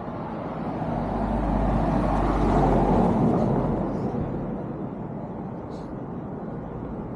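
A car driving past, its engine and tyre noise swelling to a peak about two and a half seconds in and then fading away.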